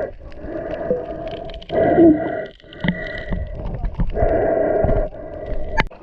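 Water sloshing and gurgling around a camera at the sea surface, in hollow surges about a second long with short breaks between them.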